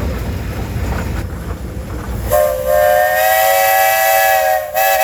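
Steam traction engine's whistle blown in a long, loud blast of several tones sounding together, starting a little over two seconds in with a brief break near the end. Before it, the engine runs with a low rumble.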